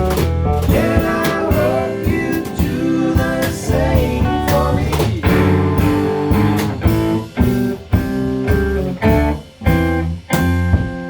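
Live band playing an instrumental passage in a blues-rock style, with guitar over a drum kit; in the second half the playing breaks into short gaps between hits.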